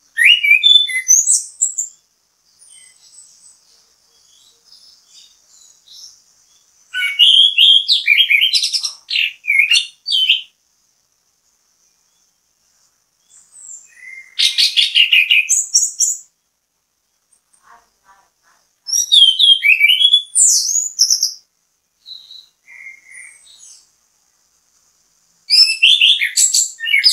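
Chestnut-capped thrush (anis kembang) in full song: five loud phrases of fast, varied, high-pitched warbling, each about two to three seconds long, separated by short pauses filled with faint twittering.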